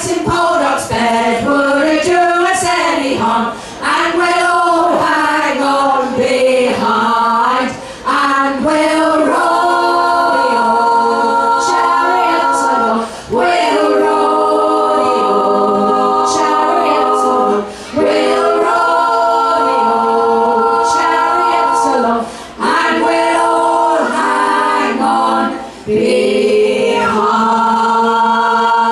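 Unaccompanied group of voices singing in harmony. Moving lines come first, then long held chords broken by short pauses for breath.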